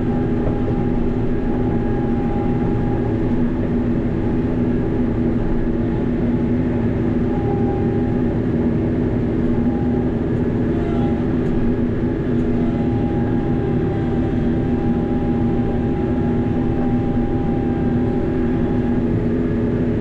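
TYM T574 hydrostatic tractor's diesel engine running at a steady speed. A constant whine from the hydraulic pumps rides over the engine's drone.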